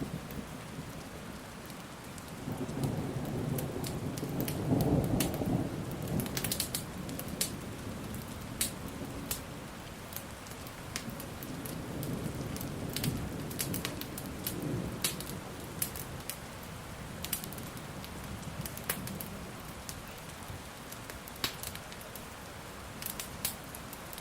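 Steady rain with rolling thunder that swells a couple of seconds in, is loudest around five seconds, fades, and rumbles again more softly in the middle. Sharp pops of a crackling wood fire are scattered throughout.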